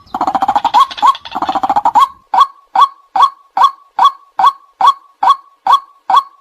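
White-breasted waterhen calling: about two seconds of rapid, gurgling chatter. Then it settles into its monotonous kwak notes, repeated a little over twice a second.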